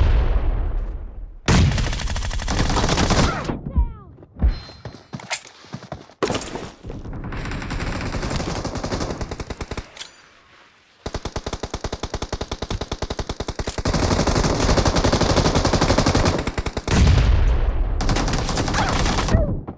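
Video game automatic gunfire: several long bursts of rapid, evenly spaced shots with short pauses between them, and heavier low-end bangs near the start and near the end.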